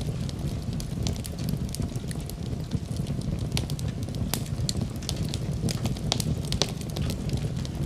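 Wood fire burning in a fireplace, with irregular sharp crackles and pops, several a second, over a steady low rumble of the flames.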